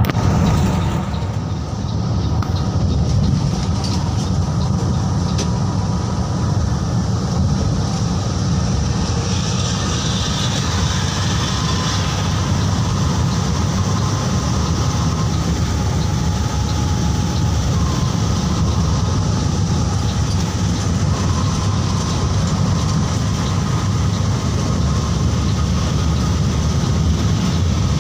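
Mercedes-Benz OH 1626 coach driving at speed: a steady, loud engine and road rumble, dipping briefly about a second and a half in.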